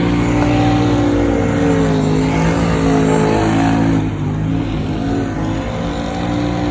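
Vehicle engine running loud, its pitch rising and falling as it is revved.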